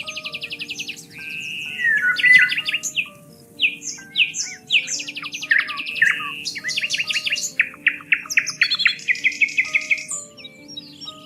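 Several songbirds chirping and singing together, with fast trills and quick slurred notes overlapping throughout, over soft background music of slow sustained low notes.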